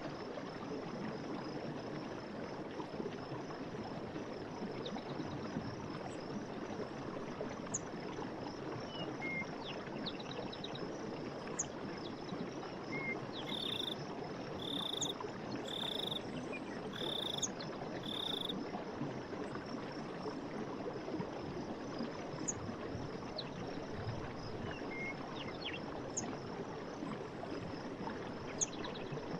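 Steady rush of running water, with scattered short high chirps and, in the middle, a high call repeated five times about once a second.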